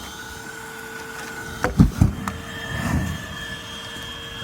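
Vacuum cleaner motor running with a steady whine, its pitch stepping up a little about two seconds in. Two loud low thumps come around the same moment, followed by a smaller one.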